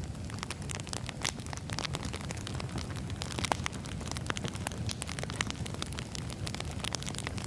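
Firewood burning: a steady low rumble of flames with irregular sharp crackles and pops from the burning wood, one louder pop about three and a half seconds in.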